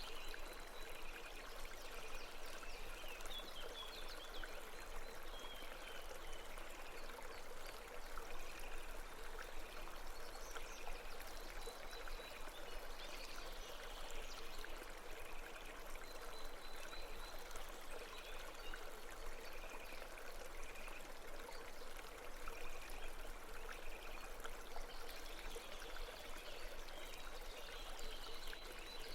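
A babbling brook, its water running steadily over stones, with faint short high chirps coming and going above it.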